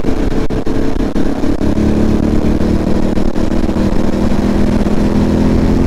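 Yamaha Raptor quad's single-cylinder engine running at a steady road speed, its pitch rising a little about two seconds in, with wind rumbling on the microphone.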